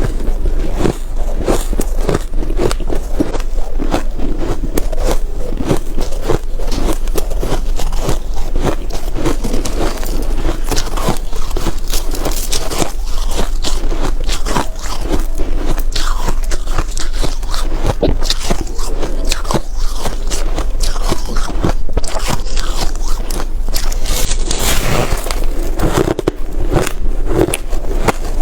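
Close-up bites and chewing of refrozen soft ice, a dense, continuous sandy crunching with many fine crackles.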